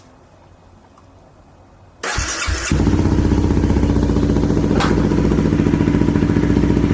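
Honda CBR250R's single-cylinder engine with an aftermarket Delkevic exhaust being started about two seconds in. A brief crank on the electric starter, then it catches and idles steadily.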